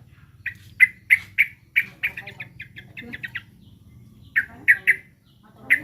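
Yellow-vented bulbul giving sharp, repeated alarm notes in short bursts, including one quick run of chips, as it calls while agitated and on guard.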